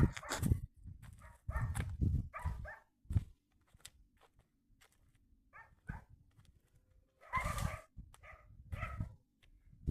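A dog barking: a handful of short, separate barks, the loudest about two-thirds of the way in.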